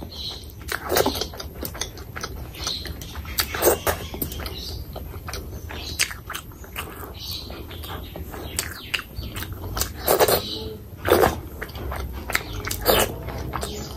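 Close-miked wet chewing and lip-smacking of a mouthful of rice and fish curry eaten by hand, a rapid run of sharp mouth clicks with a few louder smacks about a second in, near four seconds, twice around ten to eleven seconds, and again near the end.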